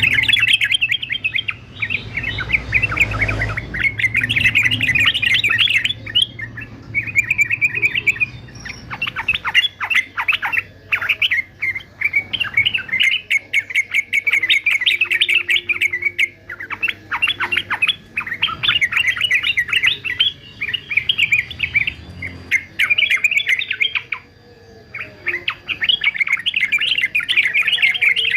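Male yellow-vented bulbul singing: rapid, chattering phrases of one to three seconds, repeated again and again with short gaps.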